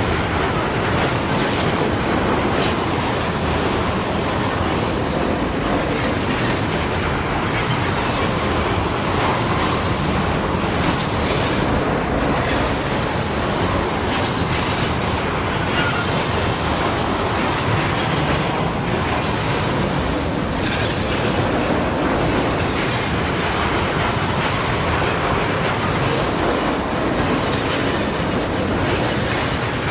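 Freight train wagons rolling past: a steady rumble with wheels clacking over the rail joints.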